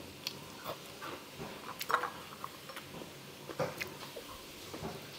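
Close-miked chewing and lip-smacking of a person eating by hand: a string of short, wet mouth clicks, the loudest about two seconds in.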